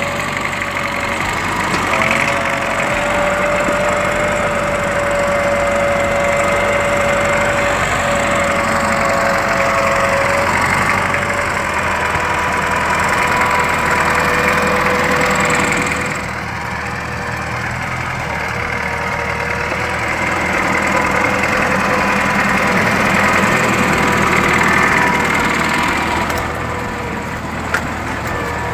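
Tractor engine running steadily under load, with a steady high-pitched whine over the engine noise; the sound shifts about halfway through.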